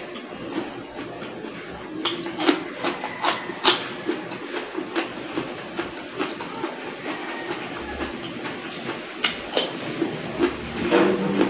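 Raw cucumber being bitten and chewed close to the microphone: a steady wet crackle of chewing with sharp crunches, clustered about two to four seconds in and again at about nine and a half seconds.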